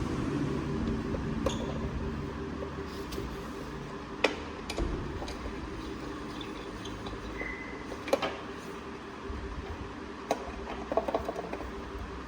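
A steady low mechanical hum, broken by a few sharp clinks and knocks of hard objects being handled, with a small cluster of them near the end.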